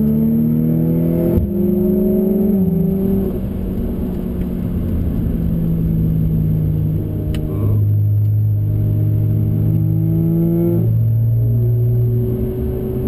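Audi B8 S4's supercharged 3.0-litre V6, with an APR exhaust, under hard acceleration on track, heard from inside the cabin. The revs climb and drop sharply about a second in, ease off for a few seconds, then climb again and drop sharply near the end.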